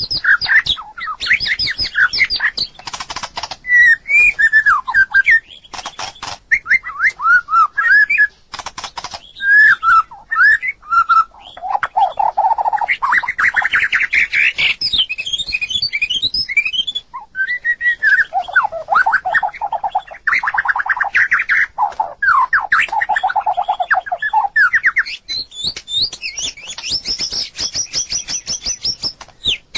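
White-rumped shama singing: a continuous, varied run of gliding whistled phrases, fast trills and short harsh notes.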